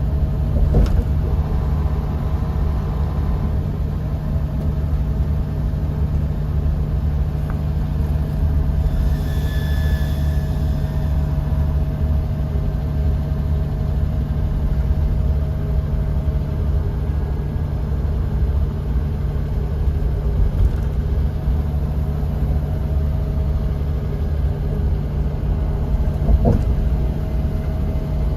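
Bus engine and road noise heard from inside the passenger cabin: a steady low drone with a faint whine, a brief higher tone about nine seconds in, and a couple of short knocks or rattles, one about a second in and one near the end.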